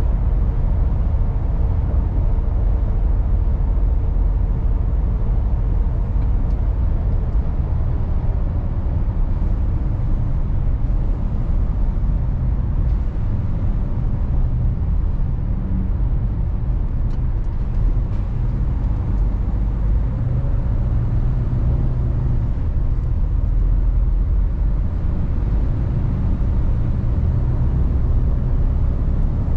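Mercedes Actros truck driving, its diesel engine and road noise making a steady low rumble that holds an even level throughout.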